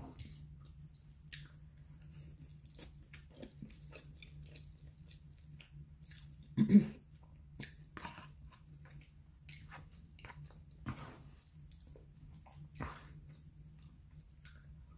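Close-up mouth sounds of someone chewing a mouthful of baked spaghetti, with small irregular wet clicks and smacks. A louder short sound comes about halfway through, over a faint steady low hum.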